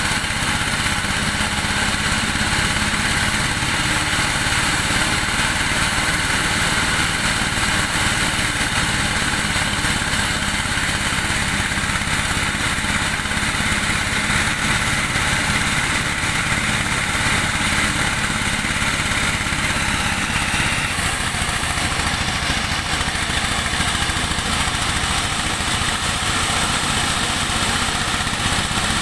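Engine-driven corn sheller running steadily, its motor humming under a dense mechanical clatter.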